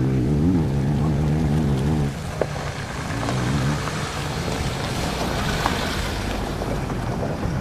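Off-road enduro motorcycle engines racing, the engine note rising and falling with the throttle as the bikes cross rough ground; the loudest engine drops away about two seconds in, leaving fainter engine sound and a steady hiss of wind noise.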